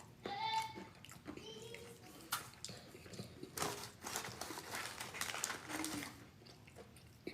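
Chewing and mouth noises from eating at close range, with a few short pitched vocal sounds among them.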